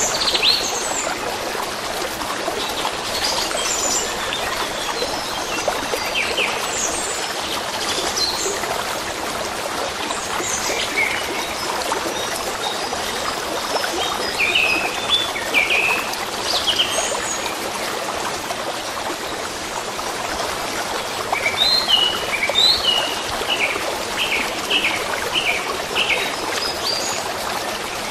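A stream trickling steadily, with birds chirping in short scattered calls over it, busiest in the second half.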